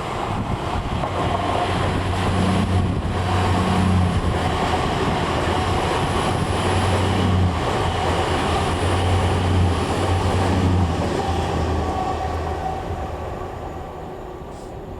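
Class 166 diesel multiple unit moving through the station with its diesel engines running, a low steady hum that grows louder over the first few seconds, stays loud, then fades away over the last few seconds.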